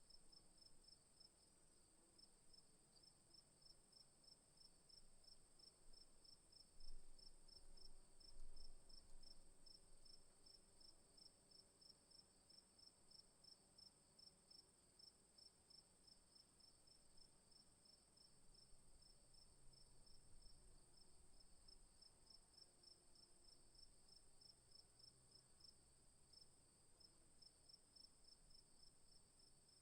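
Faint, even, rapid chirping of insects such as crickets, with a continuous high-pitched drone underneath.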